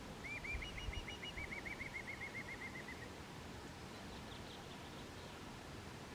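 A bird singing a rapid trill of evenly repeated notes that falls slightly in pitch and lasts about three seconds, followed by a few faint, higher chirps, over a steady outdoor hiss.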